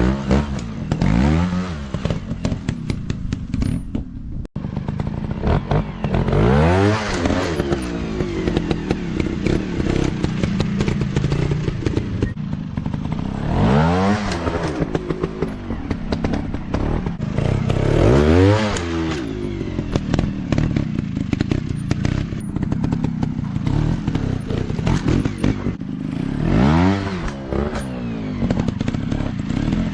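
150 cc dirt bike engine revving up and down, about five bursts of throttle over a running engine.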